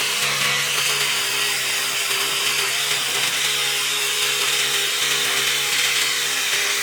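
A motor-driven machine running steadily: a constant hum under a loud, even hiss.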